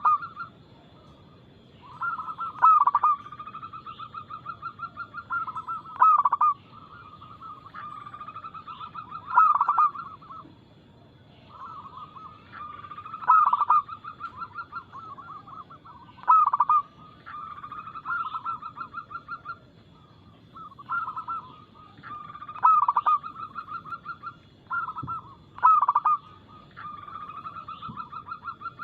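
Zebra doves (perkutut) cooing: repeated phrases every three to four seconds, each a quick run of staccato notes with one louder accented note.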